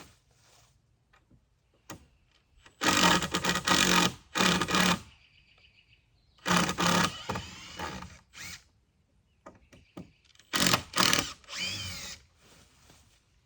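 Power drill backing screws out of wood in about five short runs, the pitch sagging and recovering as the screws bind and come free.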